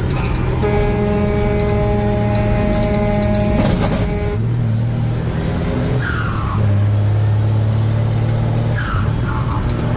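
Truck engine running on the road, a steady drone that shifts in pitch, with a short crackle about four seconds in and a few brief falling squeals near six and nine seconds.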